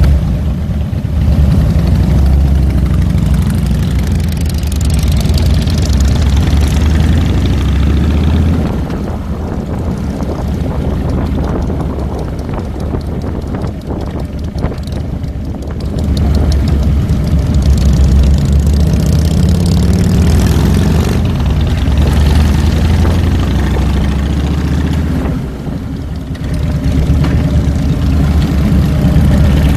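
Harley-Davidson Fat Boy's V-twin engine running under way, with wind rushing over the handlebar-mounted microphone. The engine eases off for several seconds in the middle and briefly again near the end, then picks back up.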